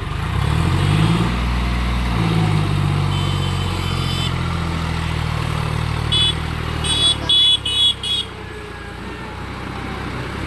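A heavy diesel engine revving up and then running steadily under load, with a vehicle horn sounding a one-second note and then five short toots.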